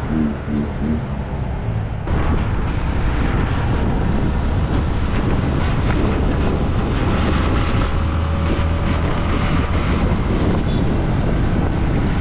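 Wind rushing over the microphone of a moving motorcycle, with engine and road rumble underneath; it gets louder about two seconds in.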